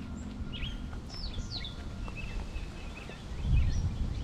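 Wild birds chirping outdoors, several short calls that slide downward in pitch, over a steady low rumble. A louder low thump comes about three and a half seconds in.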